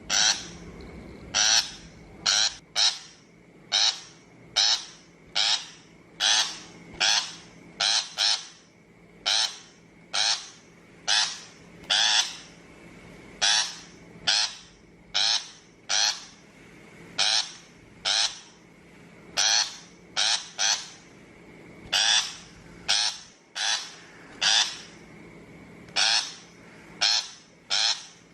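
A shrike giving short, harsh calls over and over, about one or two a second, some in quick pairs.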